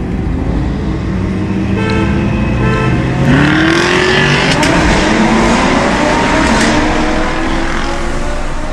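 High-performance cars accelerating hard. The engine note climbs in pitch from about three seconds in over a loud rushing exhaust noise.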